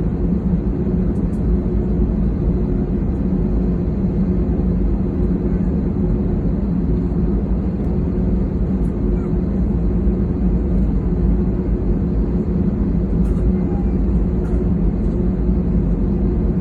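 Steady cabin noise of an airliner taxiing: the engines' even drone at taxi power with a low rumble underneath and a couple of held tones.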